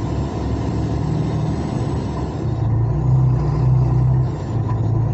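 Truck engine running steadily in slow traffic, heard from inside the cab as a low drone that swells and eases slightly, at about 1,140 rpm.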